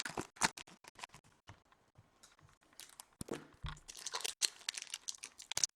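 Trading-card pack wrapper crinkling and tearing, with cards being handled: a run of short, irregular crackles and clicks, quieter for a moment in the middle.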